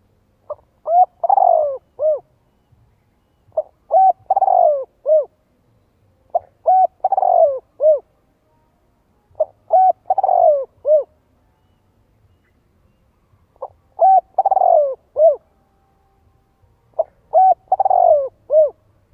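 Spotted dove cooing its song: six phrases a few seconds apart, each made of short coos around a longer coo that falls in pitch.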